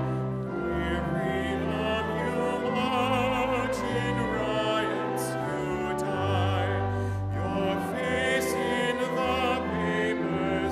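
Church music during communion: a singer with strong vibrato sings a slow sacred song over held low accompaniment notes.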